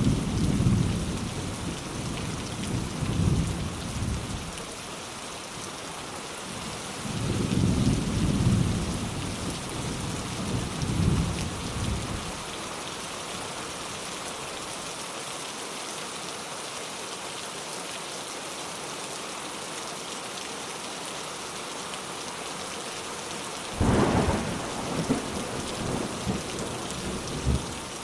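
Steady rain with rolls of thunder: low rumbles in the first few seconds and again from about 7 to 12 seconds in. A sudden, sharper thunderclap comes about 24 seconds in and rumbles on for a few seconds.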